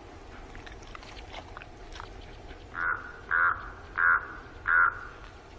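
Raven calling four times in quick succession, short hoarse croaks about two-thirds of a second apart, starting just past the middle.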